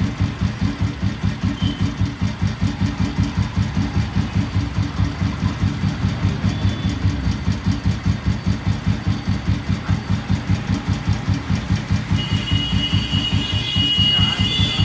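Old Royal Enfield Bullet's single-cylinder cast-iron engine idling with a slow, even thump, about four beats a second. A higher whining tone joins in over the last few seconds.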